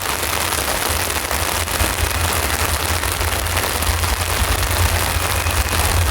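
Heavy rain pattering close to the microphone, a dense crackle of drops, with a low rumble that swells about a second in.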